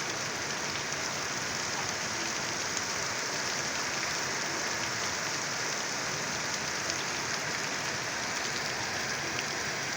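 Heavy rain pouring down steadily: a dense, even hiss with faint scattered drop ticks.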